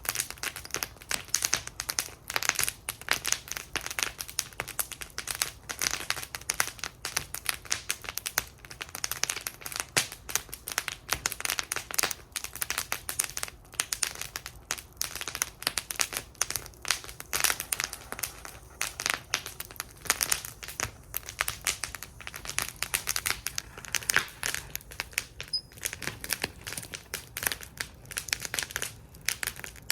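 Campfire burning in a fire bowl, crackling steadily with dense, irregular sharp pops and snaps.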